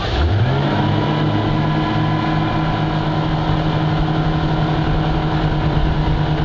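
Speedboat engine picking up speed, its pitch rising over the first half second, then running steadily at speed under a rushing noise.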